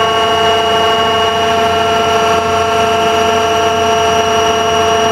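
Haas TL-2 CNC lathe running under power, giving a steady, unchanging whine made of several pitches over a low hum.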